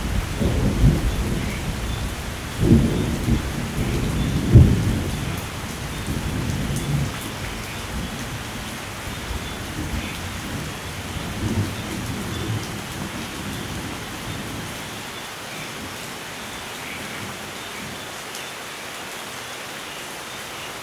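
Steady rain with rolling thunder: low rumbles with sharp cracks about three and four and a half seconds in, dying away over the second half and leaving the rain alone.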